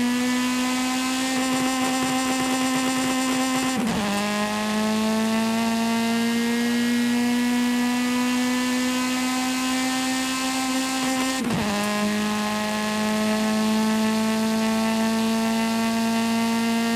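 Video-game car engine under acceleration: a steady pitched drone that climbs slowly, then drops sharply twice, about four seconds in and again some eight seconds later, as the car shifts up a gear.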